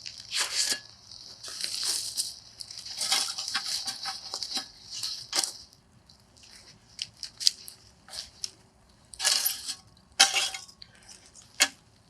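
Things being handled: irregular rustles, knocks and light clinks, with a steady high hiss that stops about halfway through.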